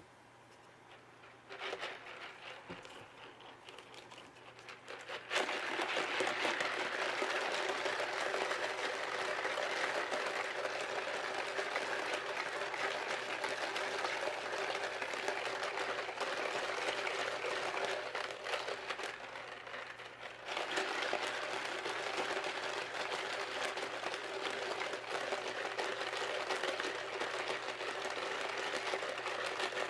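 Rapid scrubbing on a mechanical keyboard's plate between the exposed switches, a dense scratchy rasp. It starts faintly, gets much louder about five seconds in, and eases off briefly about two-thirds of the way through before carrying on.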